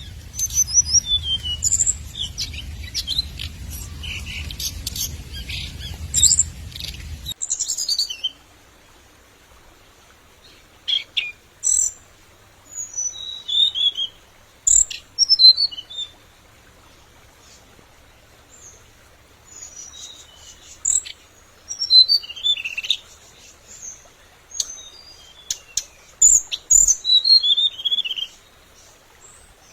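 Hồng hạnh songbird singing in bouts of high, quick chirps and short falling trills. This is the lure song used to draw other birds. A low rumble under the first seven seconds stops abruptly, and the song then comes in separate bursts with short gaps.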